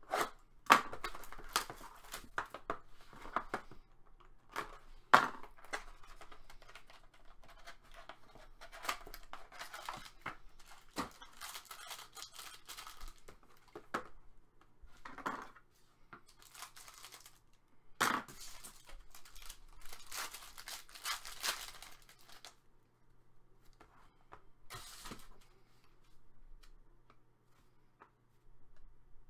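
Trading card packs being torn open and cards handled: wrappers tearing and crinkling, with irregular sharp clicks and rustles of card stock, the loudest about a second in and again about five seconds in.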